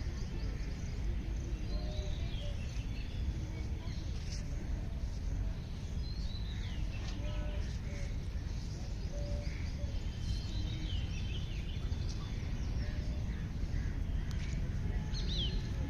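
Several birds chirping and calling on and off over a steady low rumble of outdoor background noise.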